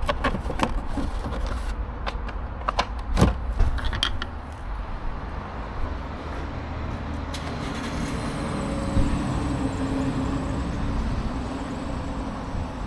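A series of sharp clicks and taps from small parts being handled for the first four seconds, then a steady rumble of a passing motor vehicle that swells a little near the middle and holds.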